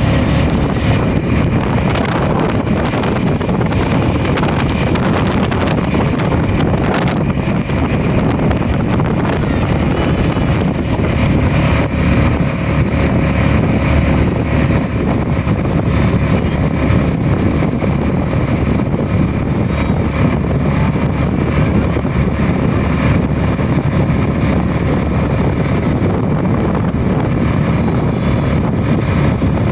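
Heavy rain falling steadily: a loud, even wash of noise with no let-up.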